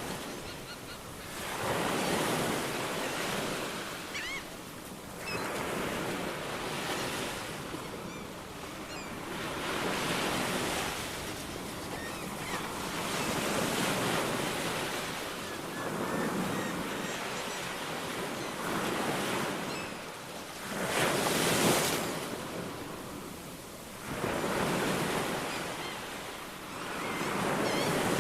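Ocean waves washing onto a shore, a surge of surf every three seconds or so, the loudest one a little past the middle.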